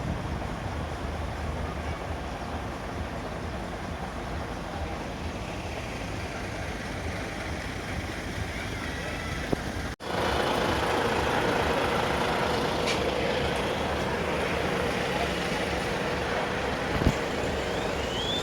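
Truck engines running with a steady rumble. It cuts off abruptly about ten seconds in and comes back louder, with a held mid-pitched drone and a sharp click near the end.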